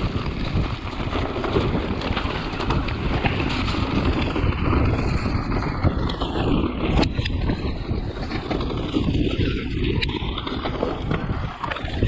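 Wind buffeting the microphone of a mountain bike ride down a wet, slippy trail, with the rumble of tyres over the ground and frequent sharp rattles and knocks from the bike.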